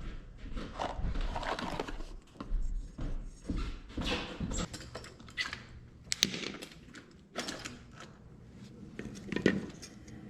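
Irregular clicks, taps and light rustling of parts and tools being handled, with a sharper knock about six seconds in and a louder one near the end.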